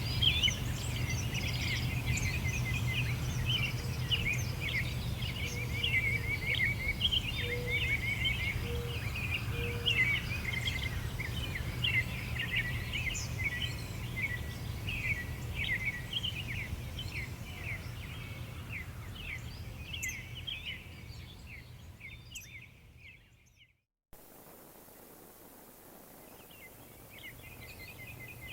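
Many songbirds chirping and trilling over a low steady background rumble. The whole sound fades out to a moment of silence about three-quarters of the way through, then fades back in more quietly.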